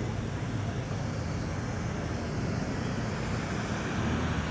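Car engines running at low speed as cars roll in, a steady low rumble.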